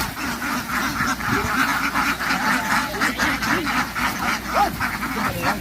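A large flock of domestic ducks quacking all together, a loud, dense and continuous din of overlapping calls.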